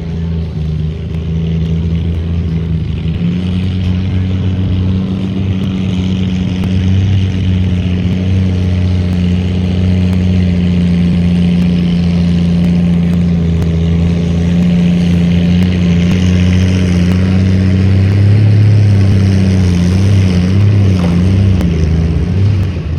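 Pulling tractor's engine running hard and steady under load during a pull, slowly growing louder, its pitch wavering near the end.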